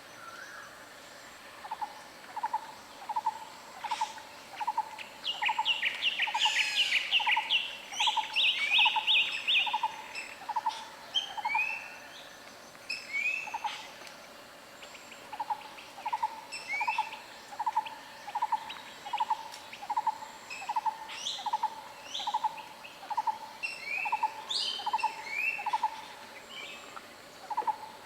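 Several birds calling together. One repeats a short, even note about twice a second, pausing for a few seconds midway, while others give higher rising chirps and a fast trill early on.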